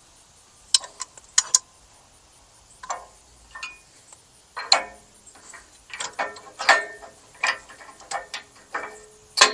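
Irregular metal clicks and clanks, some ringing briefly, from a compact tractor's three-point hitch as the telescoping lower link arms are worked and latched onto the land plane's hitch pins.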